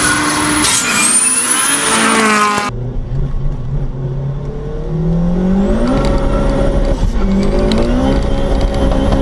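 Modified Opel Kadett hatchback accelerating hard at full throttle. At first it is heard from trackside with a high whine over the engine. About three seconds in, the sound cuts to inside the cabin, where the engine note climbs and drops back at a couple of upshifts.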